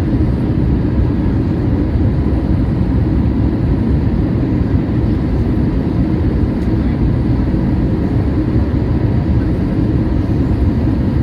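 Steady low rumble inside the cabin of a Boeing 737-800 airliner: its CFM56-7B turbofan engines and the rush of air, heard as an even noise with faint steady hums and no sudden changes.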